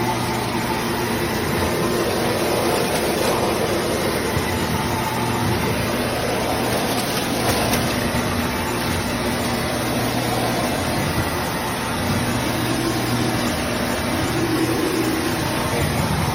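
Shark PowerDetect corded stick vacuum running steadily, its motor keeping up a constant hum under an even rush of air.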